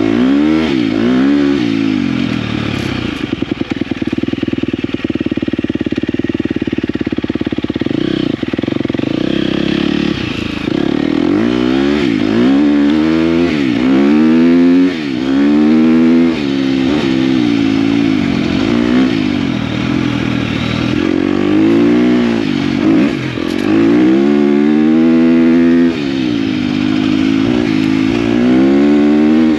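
KTM dirt bike engine being ridden, the revs rising and falling over and over as the throttle is opened and closed through the gears, with a steadier stretch of held revs early on.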